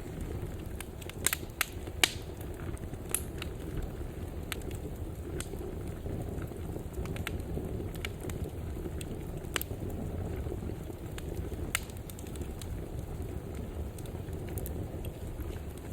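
Fire burning in a fireplace: a steady low rush of flames, with scattered sharp pops and crackles. A few louder pops come between one and two seconds in.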